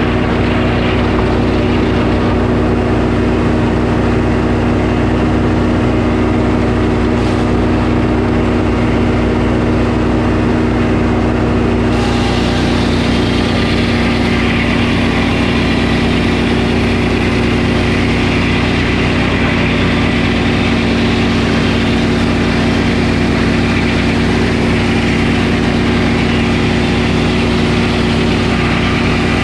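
Portable sawmill's engine running steadily at a constant speed while milling a pine log. About twelve seconds in, a brighter hiss joins the engine.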